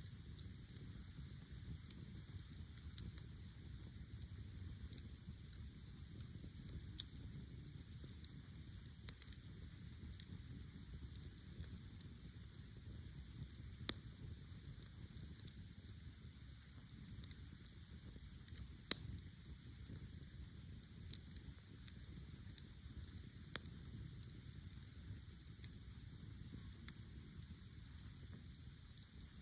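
Campfire crackling with scattered sharp pops, one much louder than the rest about two thirds of the way through, over a steady high-pitched chirring of night insects.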